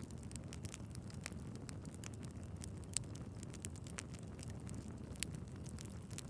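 Wood fire in a fireplace burning with a steady low rumble and frequent small crackles and pops, two sharper pops standing out about three seconds in and a little after five seconds.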